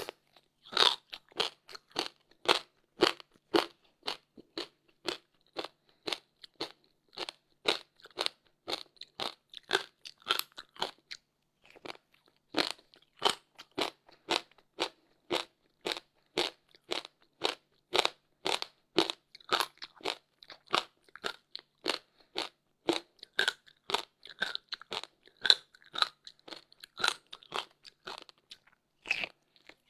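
Someone chewing frozen passion fruit ice: sharp, rapid crunches, about two to three a second, with a brief pause partway through.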